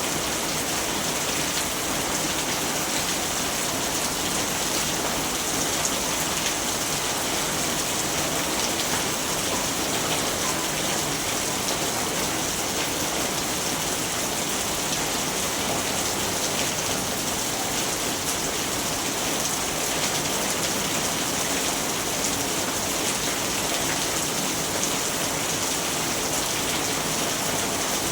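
Steady rainfall: an even hiss of rain with faint patter of drops on a surface, unchanging throughout.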